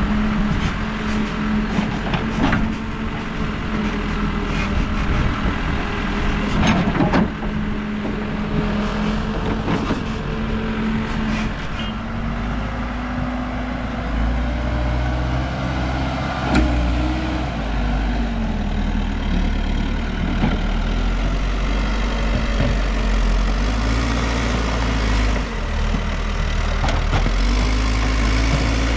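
New Holland backhoe loader's diesel engine running and working under changing load, its pitch rising and falling. Scattered knocks in the first half and one about halfway through, typical of the bucket striking clay and stones. The engine sound turns heavier and lower about twelve seconds in.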